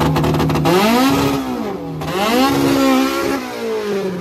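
Car engine held at high revs with a rapid stutter, then revved up and down twice, the pitch rising and falling each time, and easing back down near the end.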